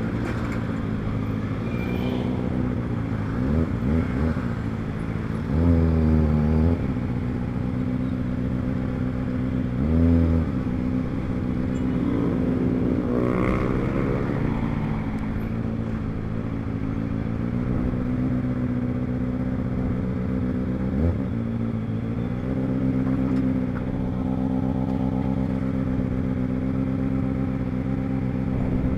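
Kawasaki ZX25R's 250 cc inline-four engine running under way. Its pitch swings down and back up several times, the loudest rev changes coming about six and ten seconds in.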